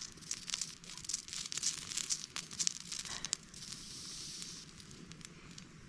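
Sausages sizzling and popping in a frying pan: a high hiss with many irregular crackles.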